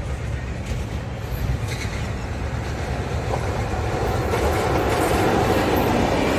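Electric locomotive hauling a passenger train approaching and passing at speed, the rumble and clatter of wheels on rails growing steadily louder from about three seconds in.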